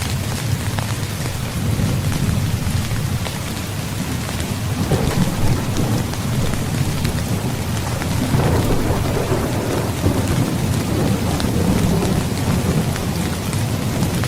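Steady heavy rain with thunder rumbling under it. The rumble swells about five seconds in and again from about eight seconds on.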